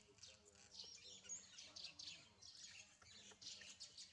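Faint, busy chirping of small birds, many short chirps overlapping one after another.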